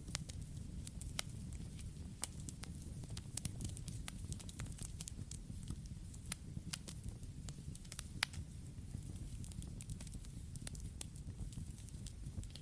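Campfire burning, with a steady low rumble of flames and frequent irregular sharp crackles and pops.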